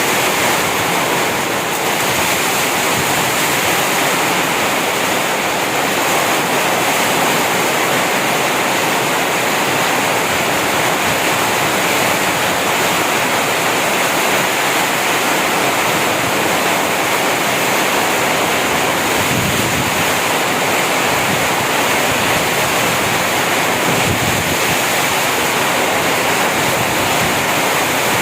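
Heavy tropical rain falling steadily, a loud, even hiss without pause.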